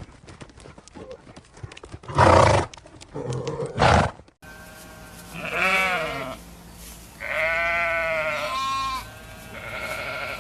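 Livestock bleating: three wavering, pitched bleats, each about a second long. Before them, two short loud noisy blasts and some faint clicks, ending at a sudden cut about four seconds in.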